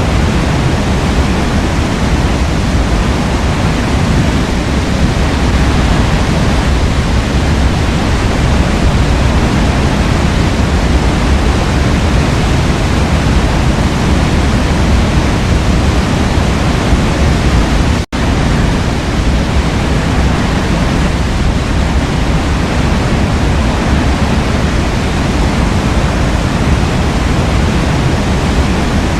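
Waterfall rushing in a steady, dense roar of falling water, heaviest in the low range, with a momentary dropout about eighteen seconds in.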